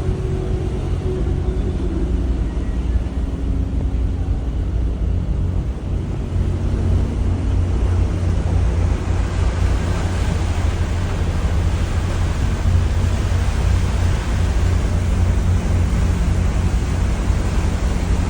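Steady low rumble with a faint machinery hum and a hiss that grows a little louder partway through: outdoor ambience on the deck of a cruise ship in a Panama Canal lock.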